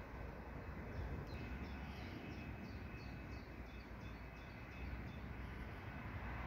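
A small songbird singing a run of short, repeated high chirps, about three a second, starting a second or so in and stopping near the end, over a low steady rumble of outdoor background noise.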